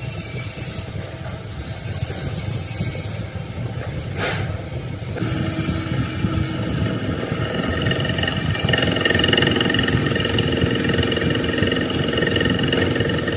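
Truck engine running with a steady low rumble, getting louder about eight seconds in.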